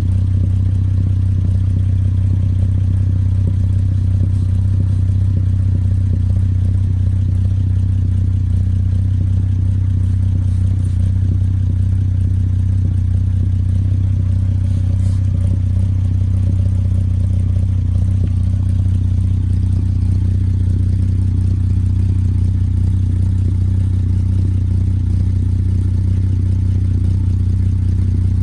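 Hyundai Genesis Coupe idling steadily through a freshly fitted ISR race cat-back exhaust, a loud, even low drone with no revving.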